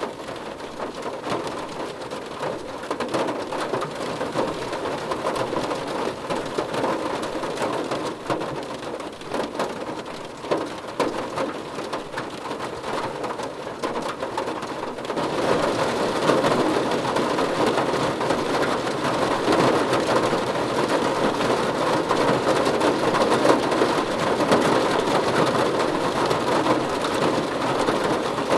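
Steady rain falling, an even hiss of drops that turns heavier and louder about halfway through.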